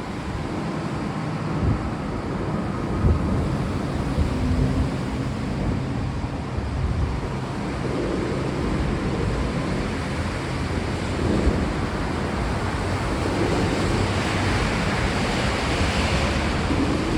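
Steady rain noise with a continuous low rolling rumble underneath.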